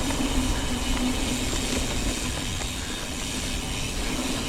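Mountain bike rolling along a dirt trail: steady tyre rumble and wind rushing over the action camera's microphone, with a faint steady hum that fades out about halfway through.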